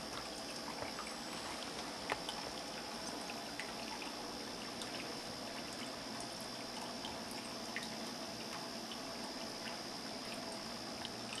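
Handmade stoneware cat drinking fountain running, water trickling steadily over the ceramic, with scattered small drips and ticks.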